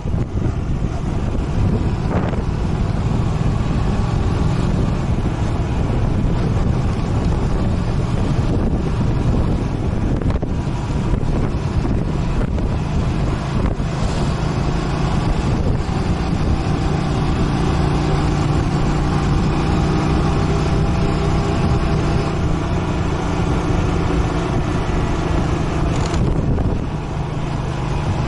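Motorcycle engine running under way, with wind noise on the microphone; the engine note shifts a few times as the speed changes.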